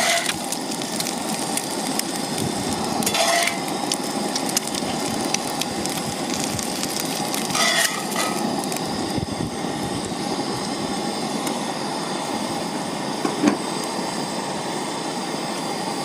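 Eggs frying in a cast iron skillet, a steady crackling sizzle. A few short scrapes or clinks come about three, eight and thirteen seconds in.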